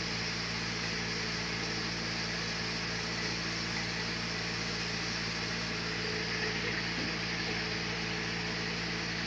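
Sawmill machinery running steadily with a constant, unchanging hum.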